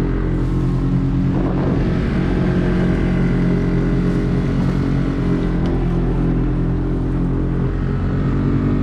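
A boat's motor running steadily at an even speed, carrying the boat along.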